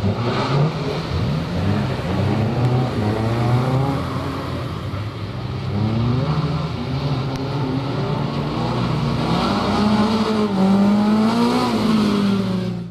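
Renault Clio rally car's engine revving hard on a tight course, its pitch climbing and dropping repeatedly as the driver accelerates, lifts and changes gear.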